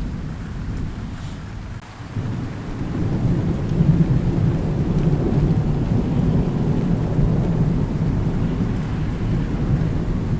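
Thunderstorm: steady rain with a deep rolling thunder rumble that dips briefly, then swells about two to three seconds in and keeps rolling.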